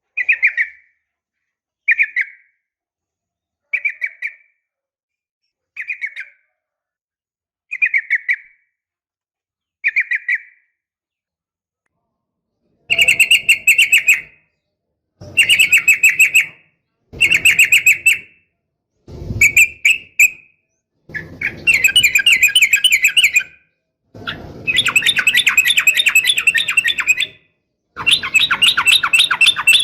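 Yellow-vented bulbul (trucukan) calling: six short calls about two seconds apart, then after a short pause longer bursts of rapid chattering song that grow longer toward the end. This is a lure recording of what the uploader presents as a female calling to males.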